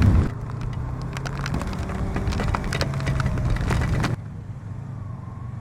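Yamaha R25 motorcycle engine running steadily under a rush of wind noise, with scattered sharp ticks. About four seconds in, the wind and ticking fall away and only the quieter engine hum remains.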